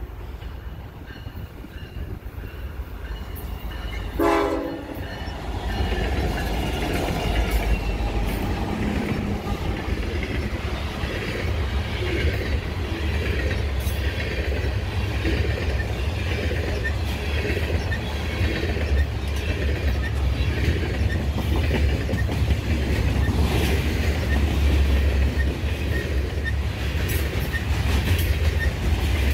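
CN diesel freight train passing at speed. A short horn blast sounds about four seconds in as the locomotive nears, and the locomotive's engine rumbles past. A long string of Herzog hopper cars then rolls by, wheels clacking steadily over the rail joints.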